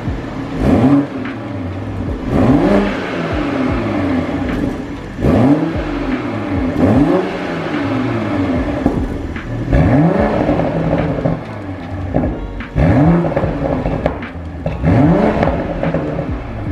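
Toyota A90 Supra engine revved repeatedly through its exhaust: about eight quick blips, each rising sharply in pitch and falling back, roughly every two seconds.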